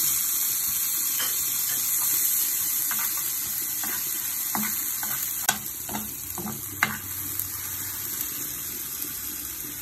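Golden-brown onions and ginger-garlic paste sizzling in hot oil in a nonstick frying pan, with a steady hiss. They are stirred with a metal spoon, which scrapes and clicks sharply against the pan now and then.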